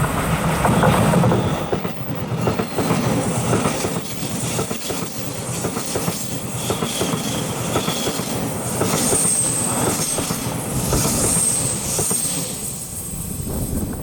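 TRA local electric multiple-unit train passing, its wheels running over the rail with a steady rumble and repeated clicks, and a thin high wheel squeal in the second half. The sound falls away as the train clears at the end.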